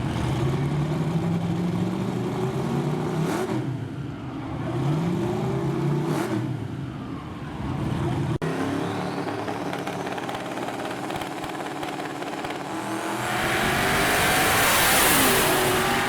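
Drag-racing truck engines at full throttle: the pitch climbs and drops back through gear changes about three and a half and six seconds in. After a cut, another run builds to a loud rush of engine and noise near the end as it passes.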